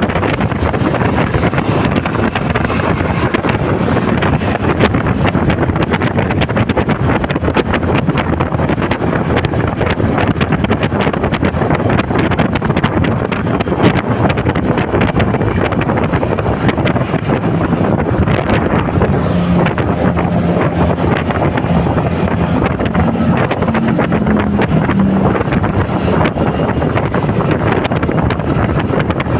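Steady wind buffeting a motorcycle rider's microphone, with the motorcycle's engine and road noise underneath.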